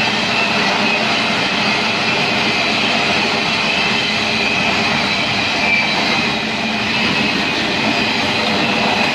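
Norfolk Southern train rolling past steadily, the continuous rumble and rattle of its cars' wheels on the rails, with faint high wheel squeal.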